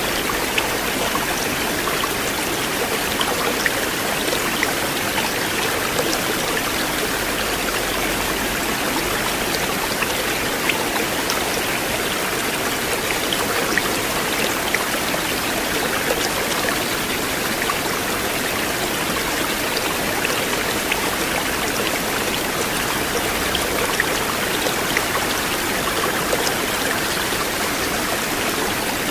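River water flowing in a steady, constant rush, with small scattered splashes and trickles.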